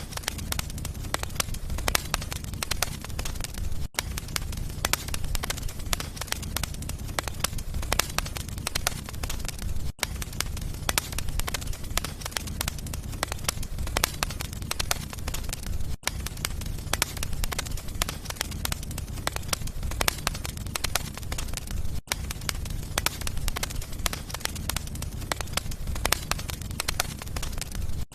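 Wood fire in a fireplace crackling and popping over a steady low rumble of flames, with a brief dropout about every six seconds.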